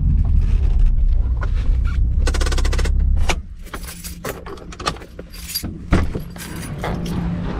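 Nissan 350Z's 3.5-litre V6 running as the car is pulled over, its low rumble cutting off abruptly about three seconds in. Scattered clicks and knocks follow, with a faint low hum returning near the end.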